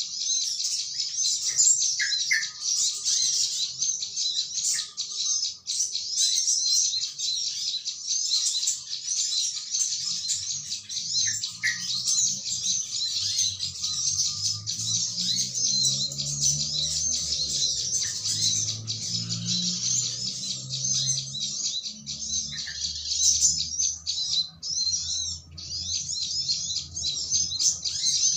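Dense, unbroken high chattering of a flock of small birds, with a few lower yellow-vented bulbul notes mixed in. It is a lure call played to attract wild birds to a trapping spot. From about ten seconds in, a low hum runs underneath.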